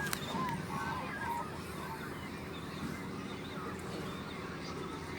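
A boat's engine humming steadily and low, with short wavering bird calls over it, most of them in the first second and a half.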